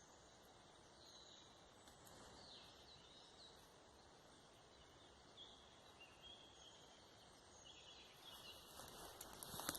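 Faint forest ambience: scattered short bird chirps over a steady low hiss. Near the end comes a louder rustling with a few sharp clicks.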